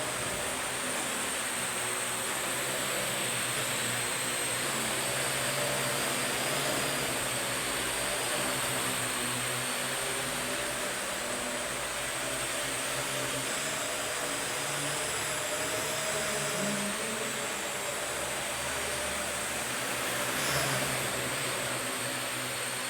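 Parrot AR.Drone 2.0 quadcopter in flight: its four propellers and electric motors make a steady whirring hum with a high whine, the pitch shifting a little now and then as it manoeuvres.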